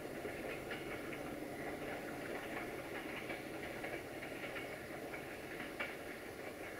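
Passenger train pulling away into the distance: the steady low rumble of its diesel locomotive, with faint clicks and squeaks of wheels on the curved track. One sharp click about six seconds in, and the sound fades slightly near the end.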